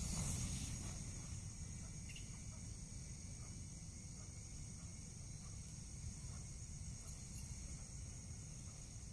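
Steady high-pitched chirring of insects, with a low rumbling background and a brief rustle at the start.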